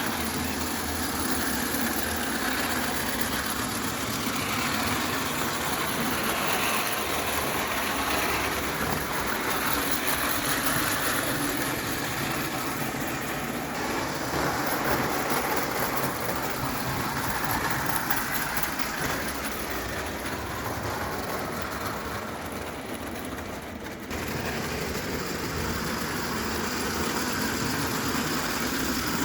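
Märklin 0 gauge live-steam tank locomotive under steam, giving a steady hissing, working noise. The level dips a little and then jumps back up suddenly about 24 seconds in.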